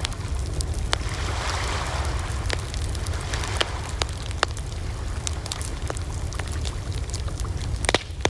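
Wood fire crackling: scattered sharp pops and snaps over a steady low rumble of burning, with a louder double pop near the end.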